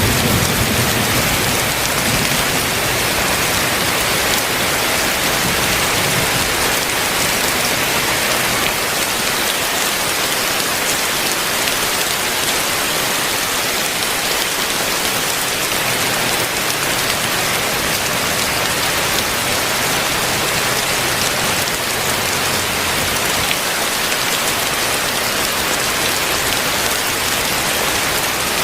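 Heavy rain falling steadily in a dense, even hiss, with a low thunder rumble dying away in the first second.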